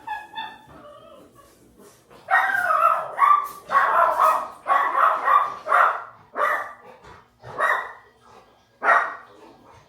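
A dog barking repeatedly: a run of about ten loud barks starting about two seconds in, after quieter whining at the start.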